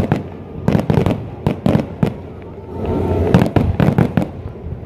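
Fireworks going off: an irregular series of sharp bangs and crackles coming in clusters, over a low background rumble.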